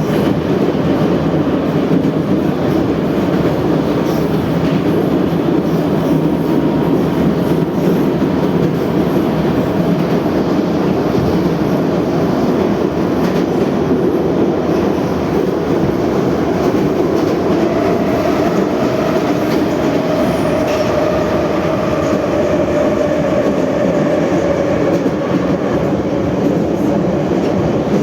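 Moscow metro 81-717/714 subway car running at speed through a tunnel, heard from inside the car: a steady, loud rumble of wheels on rail with some clickety-clack. A faint whine joins in over the second half.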